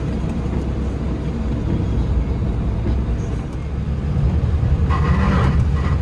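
Road and engine noise of a sports car heard from inside the cabin while driving: a steady low rumble, with a higher-pitched layer joining about five seconds in.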